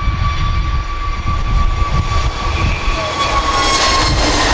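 Jet airliner's engines: a low rumble with a steady high fan whine, growing louder and hissier toward the end as the aircraft draws nearer.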